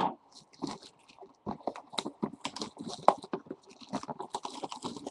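Crinkling and crackling of plastic shrink wrap on a sealed trading-card box being handled, in a run of irregular small crackles and clicks.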